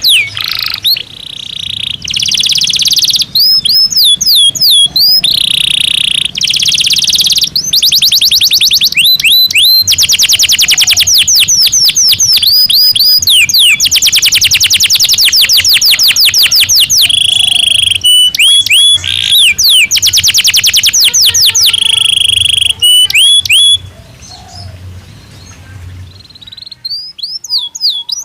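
Canary singing in its cage: a loud rolling song of very fast, evenly repeated trills broken by swooping whistled notes. The song drops away about three-quarters of the way through, then starts again near the end.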